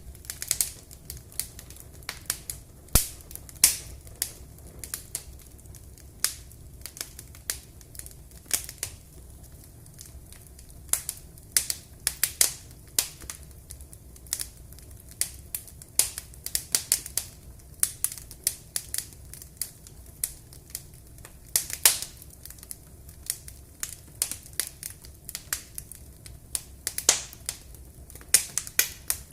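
Wood fire in a fireplace crackling: irregular sharp pops and snaps, some much louder than others, over a low steady rumble.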